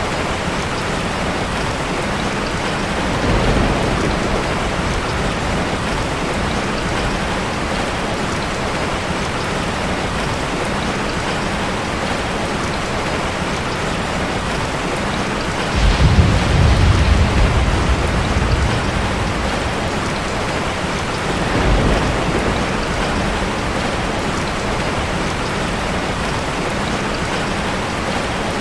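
Heavy rain falling steadily, with thunder rumbling three times: briefly a few seconds in, loudest and longest from about halfway through for a couple of seconds, then briefly again soon after.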